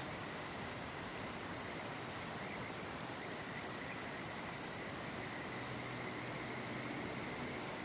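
Steady rush of a flowing river, with a faint continuous insect trill over it. A low hum comes in after about five and a half seconds.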